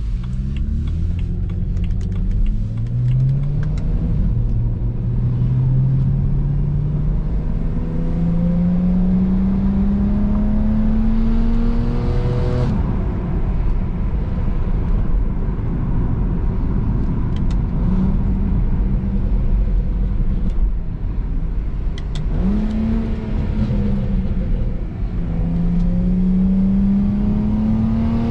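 BMW 335i's twin-turbo 3.0-litre inline-six accelerating hard, its pitch rising through the gears and dropping at each upshift; the longest pull climbs for about eight seconds before a sudden drop. It then runs at a steadier, lower pitch before two more rising pulls near the end.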